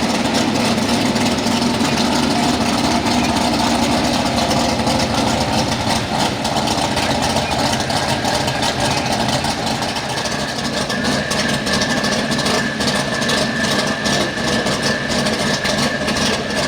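Super street pulling truck's engine running steadily and loudly between pulls. A steady high-pitched whine joins about two-thirds of the way through.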